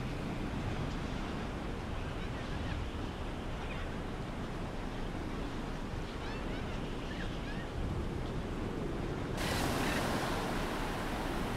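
Steady rushing ambience of ocean surf, with faint high chirps over it. About nine and a half seconds in, a louder, brighter wash of surf sets in.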